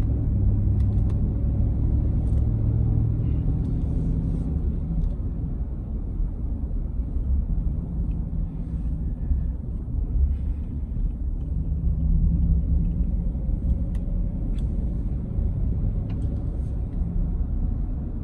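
A car driving on a rural road, heard from inside the cabin: a steady low rumble of engine and tyres, with a few faint clicks.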